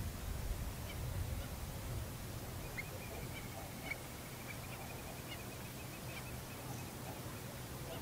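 Wetland birds calling: scattered short high chirps, with a quick run of rapidly repeated notes through the middle, over a low steady rumble.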